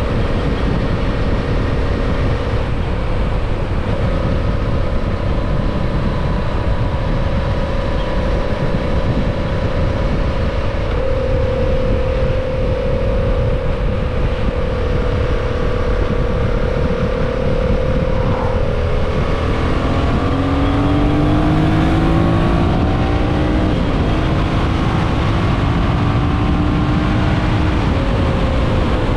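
Yamaha MT-07's parallel-twin engine heard from the rider's seat under heavy wind rush. It holds a steady note at cruising speed, then about two-thirds of the way in it is opened up hard and climbs in pitch through several quick upshifts as the bike accelerates.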